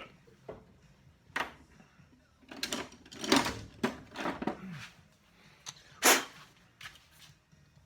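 Rummaging through a tool drawer for needle-nose pliers: a string of uneven clatters and scrapes of tools being moved, loudest about three and six seconds in.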